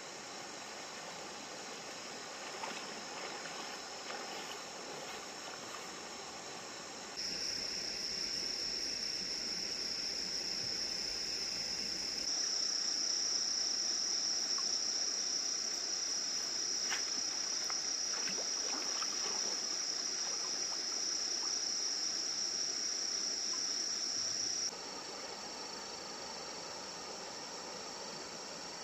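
Crickets and other insects trilling in a steady high drone. It jumps louder about seven seconds in and drops back abruptly near the end.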